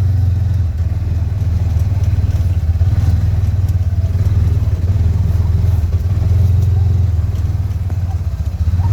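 A vehicle engine running steadily close by: a deep, even hum with a fast regular pulse.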